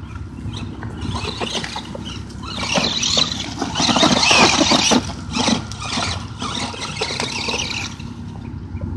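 Footsteps on wet, muddy ground, an uneven run of squelching steps with rustling that peaks midway.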